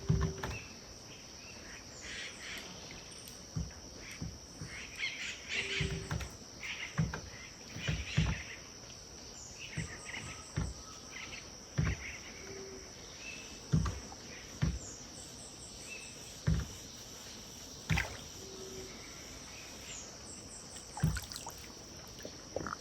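Riverbank wildlife ambience: a steady high insect drone with scattered bird chirps and a short low call repeating about every six seconds, over irregular soft knocks and lapping of river water at the bank.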